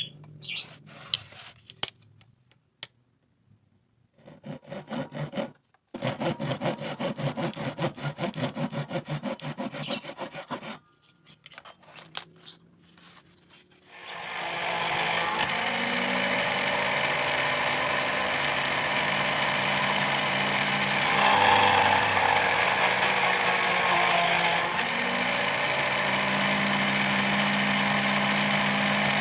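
Bamboo being sawn or scraped by hand in quick back-and-forth strokes, about three a second, after a few scattered taps. About halfway through, a louder steady mechanical running noise with a low hum takes over and continues.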